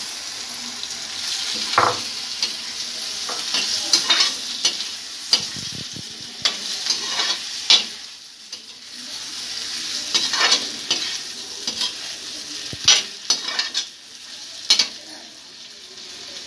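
Cubed pumpkin sizzling in hot oil with fried masala in a steel kadhai, freshly added. A metal slotted spatula stirs it, scraping and clinking against the pan at irregular moments.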